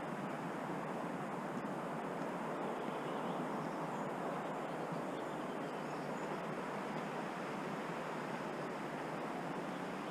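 Steady rushing of water: forest rain and running water. Faint high bird chirps come in around the middle.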